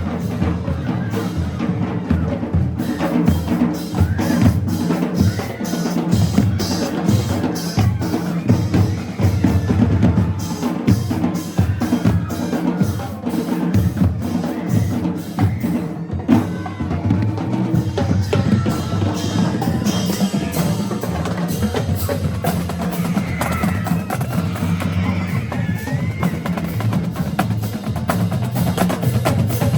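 A marching band drumline playing a cadence: snare drums and bass drums beating a steady, dense rhythm.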